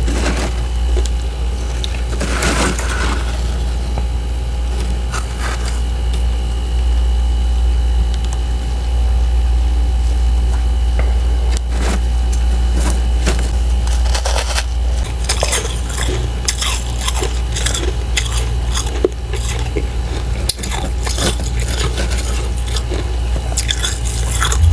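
Brittle freezer frost crunching in scattered crackles, heaviest near the start and through the second half, over a steady low hum.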